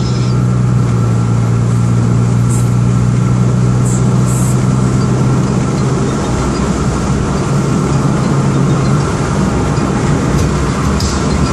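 Perodua Axia's engine droning at a steady cruising speed, heard from inside the cabin over tyre and road noise; the steady engine tone drops away about nine seconds in.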